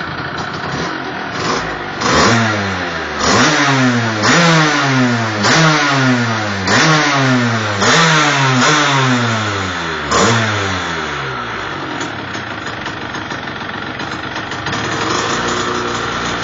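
Derbi Senda 50 SM's 50 cc two-stroke single through a Giannelli aftermarket exhaust, idling and then blipped hard about once a second for several seconds, each rev rising in pitch and dropping straight back. It then settles back to idle and starts to rise again near the end.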